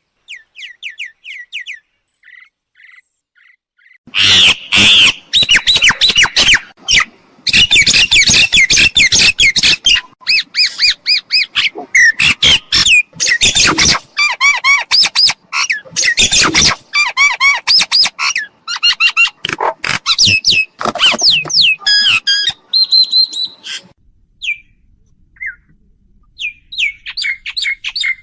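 Myna calling: a few quiet whistled notes, then from about four seconds in a loud, dense run of harsh squawks, chatters and whistles, thinning to scattered calls near the end.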